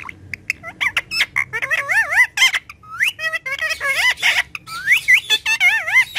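Green ringneck parakeet vocalising in quick bursts of wavering whistled notes, squawks and sharp clicks: the chatter of a talking pet parrot.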